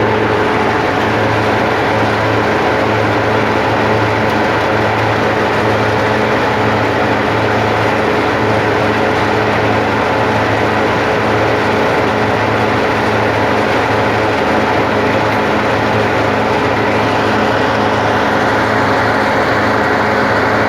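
Hazelnut husking machine (patoz) running steadily, a loud, continuous mechanical drone with a dense rough rattle over it.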